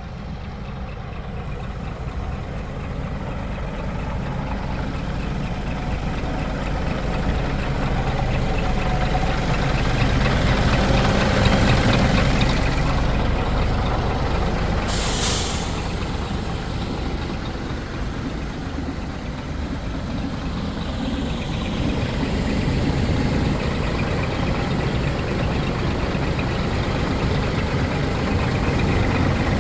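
Scania R480 truck's inline-six diesel engine running, growing louder over the first dozen seconds and then settling back. About halfway through comes a short, sharp hiss of released air from the truck's air system.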